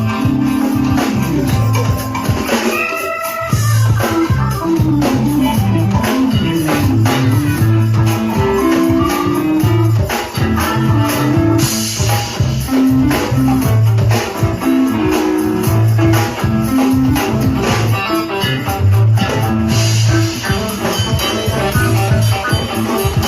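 Live band playing an instrumental groove: a moving bass line under guitar, with a steady, busy beat.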